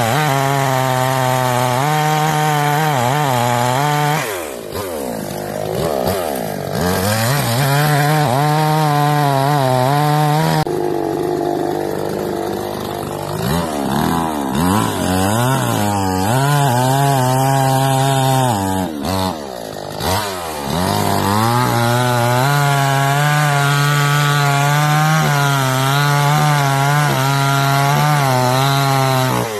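Huyosen chainsaw running at high revs while cutting into a tree. The engine pitch wavers as the chain loads up in the wood. It drops off briefly about four seconds in and again around twenty seconds in, then climbs back to full speed each time.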